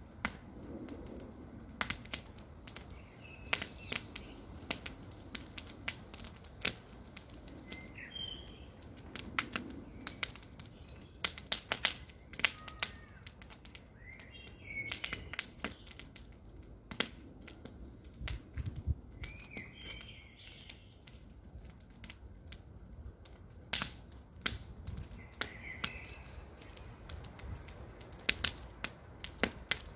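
Campfire burning, wood crackling and popping in sharp, irregular snaps over a soft low rush of flame. A short bird chirp sounds every five seconds or so in the background.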